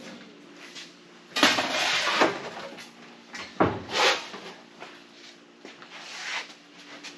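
Workshop handling noises: a short rush of noise about a second and a half in, then a couple of sharp knocks and a lighter one later, over a faint steady hum.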